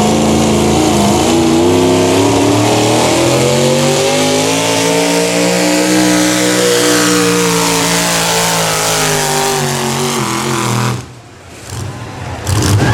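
Modified pulling truck's engine at full throttle under load. Its pitch climbs for several seconds, then sags as it bogs, and the sound drops away suddenly near the end.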